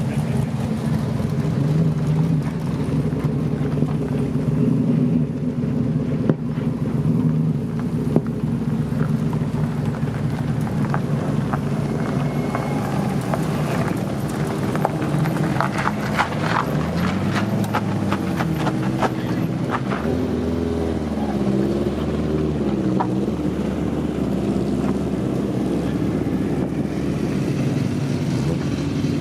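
Car engines running at a hill sprint. About halfway through, an engine is revved up and down several times, with a scatter of sharp ticks just before.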